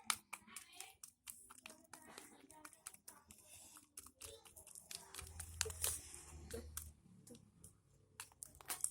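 Homemade glue slime being stirred and kneaded by hand as the borax activator thickens it, giving many small irregular sticky clicks and crackles.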